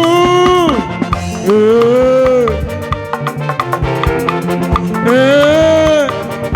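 Live band music with no singing: a lead melody of long held notes in short phrases, each rising, holding and falling away, over a steady bass and drum beat.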